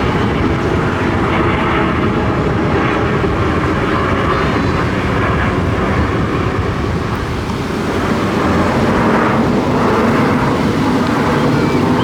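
Aircraft engine noise overhead at an airshow: a loud, steady rush that swells a little near the end.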